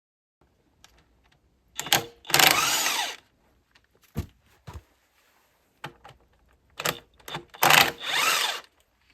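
Handheld power tool run in two bursts of about a second each, with scattered clicks and knocks between.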